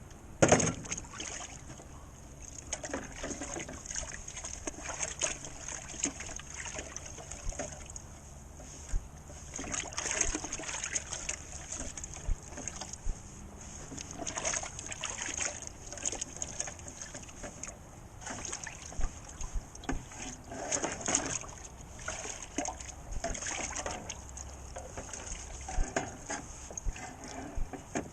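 Drywall taping knives and tools being washed in a bucket of water: sloshing, splashing and scraping in irregular bursts, with a sharp knock about half a second in.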